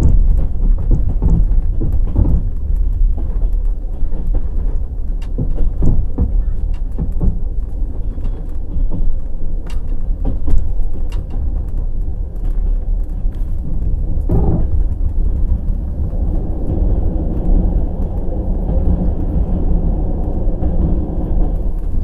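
Passenger train wheels running on the rails at speed: a steady low rumble with scattered sharp clacks from the wheels crossing rail joints, the noise growing fuller a little after halfway.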